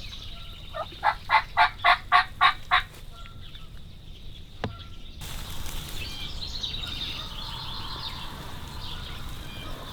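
A run of about eight turkey yelps, roughly four a second, followed a couple of seconds later by a single sharp click.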